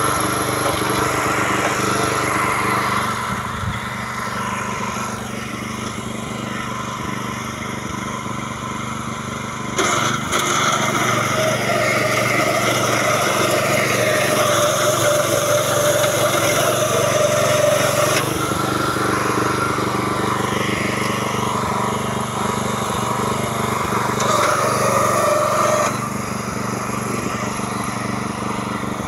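Small petrol engine of a power weeder running steadily while it works. It gets louder about a third of the way in and drops back near the end.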